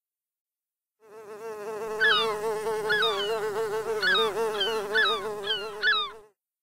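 Sound effect of a fly buzzing: a steady, wavering buzz that fades in about a second in, with short chirping swoops about once a second, and stops shortly before the end.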